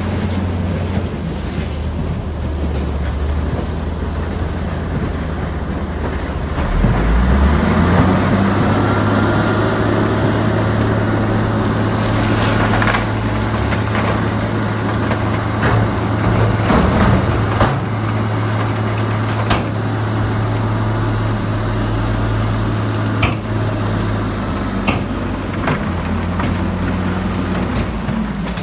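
Heavy diesel earthmoving machinery running under load: a deep steady engine note that revs up about seven seconds in, with scattered metallic knocks and clanks in the second half.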